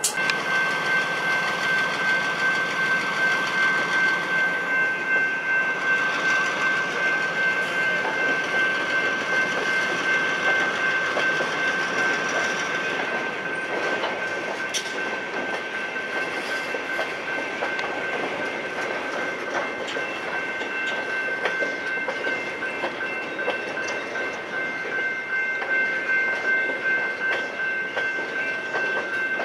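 Covered hopper cars of a Richmond Pacific Railroad freight train rolling steadily across a road grade crossing, wheels passing over the rail joints. A steady high-pitched ringing tone runs over it throughout.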